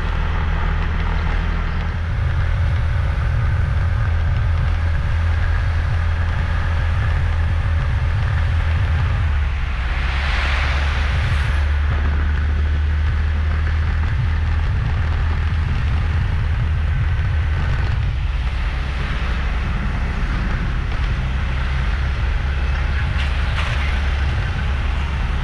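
Steady low rumble of a moving motorbike, its engine running under wind buffeting on the microphone, with a brief hissing swell about ten seconds in.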